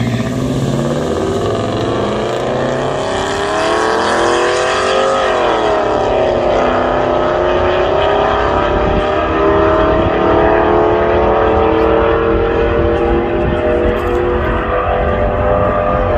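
Engine of a vehicle making a hard, full-throttle drag-strip pass. Its pitch climbs for about five seconds, drops sharply at a gear change, then climbs again more slowly before another shift at the very end.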